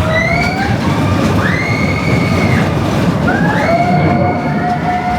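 Expedition Everest roller coaster train running along its track with a steady loud rumble, and several high squealing tones, each held about a second, rising over it and overlapping.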